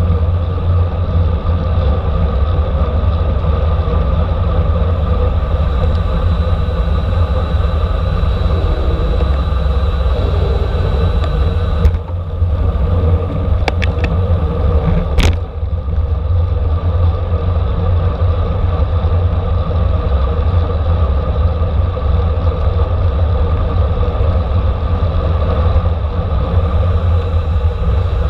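Steady low rumble of wind buffeting and road noise on a camera riding with a racing bicycle in a criterium, with a few sharp clicks about halfway through.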